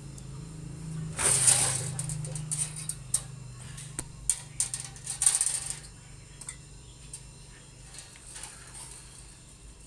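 Metal clicks and small rattles from handling parts and tools, with two short hissing bursts, about a second in and again about five seconds in, over a steady low hum.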